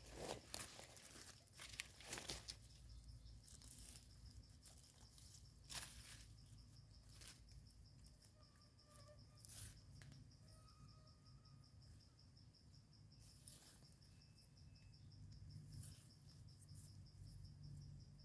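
Faint, steady, pulsing chirr of crickets, with scattered close rustles, snaps and crackles as termite mushrooms are picked from the soil and leaf litter.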